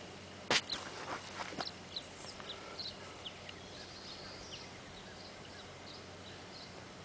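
A sharp click about half a second in, then several lighter clicks, followed by scattered faint, short, high chirps of small birds, over a low steady hum.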